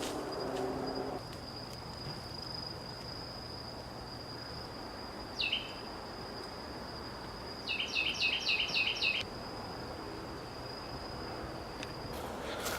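Woodland insect drone, a steady high-pitched buzz that stops near the end. Over it a bird gives one short call about five seconds in, then a quick run of about six chirps around eight seconds.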